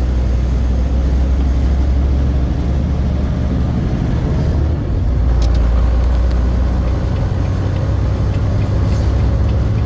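Truck engine and road noise while driving: a steady low drone whose pitch shifts slightly a few times.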